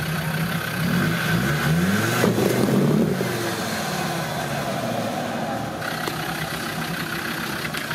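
An off-road 4x4's engine revving under throttle, its pitch climbing about a second in, then holding steady.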